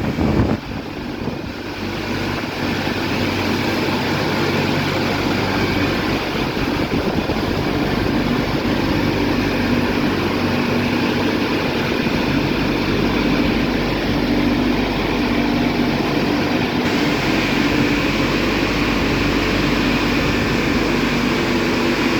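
Istobal M12+ rollover car wash running: a loud, steady whirring machine noise with a low hum, dipping briefly about half a second in.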